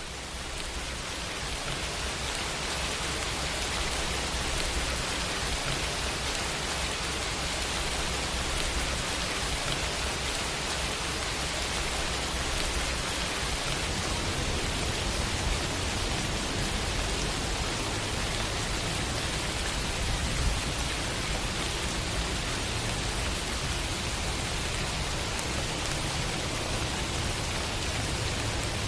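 Steady, dense rainfall hissing evenly, fading in at the start and then holding level, with a low rumble underneath.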